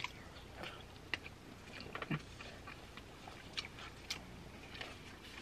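Quiet chewing of a birria quesadilla, with irregular soft mouth clicks and smacks every half second or so.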